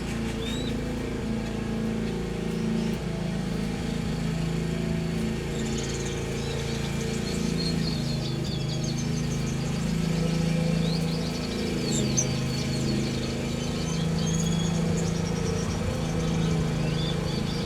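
Small aviary birds chirping in short high calls over a loud, steady low hum that shifts in pitch every second or two.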